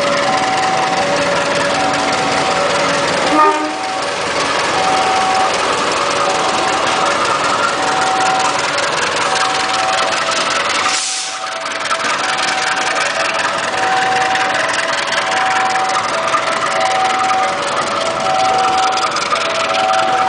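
Level-crossing warning alarm sounding a repeating two-note signal, high then low, over the steady noise of a diesel train running past. The noise dips briefly twice, near 4 and 11 seconds in.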